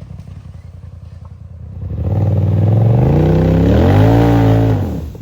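Side-by-side UTV engine idling, then revving hard from about two seconds in, its pitch climbing and then falling away before it drops off near the end.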